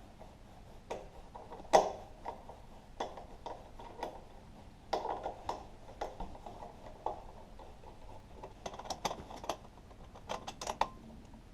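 Hand tools clicking and small metal parts knocking as bolts are worked loose on a small engine. The sound is irregular single clicks with a few louder knocks, and quick runs of rapid clicks near the end.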